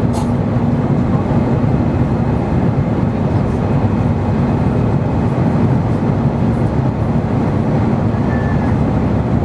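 Steady engine and airflow noise heard inside the cabin of an Airbus A320 during takeoff, a dense even rumble with a faint steady hum that fades out a couple of seconds in.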